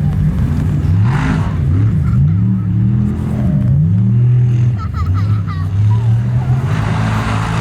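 Formula Offroad hill-climb buggy's engine revving hard, its pitch rising and falling again and again as the throttle is worked. Two short bursts of hiss come about a second in and near the end.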